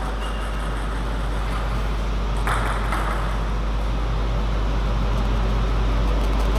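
Steady low hum with an even background rush of hall noise, and no clear ball strikes.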